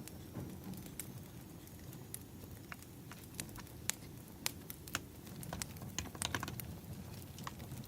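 Wood fire crackling: irregular sharp pops, several in quick succession about six seconds in, over a low steady rush.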